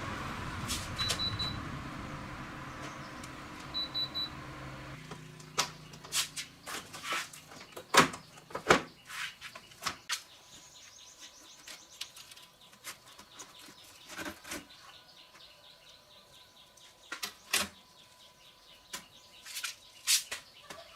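A motor runs steadily for about five seconds and then stops, followed by scattered sharp clicks and knocks of parts and tools being handled. A bird chirps briefly twice over the motor.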